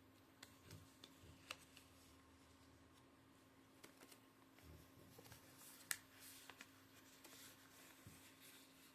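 Faint handling of origami paper being folded: soft rustles and small creasing clicks, the sharpest click about six seconds in, over a low steady hum.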